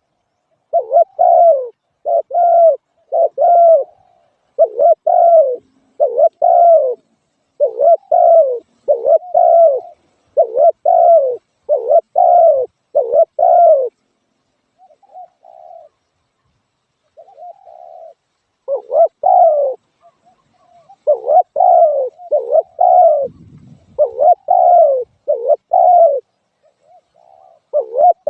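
Spotted dove cooing in quick repeated series of short coos, with a pause of a few seconds near the middle where only faint notes sound before the cooing starts again.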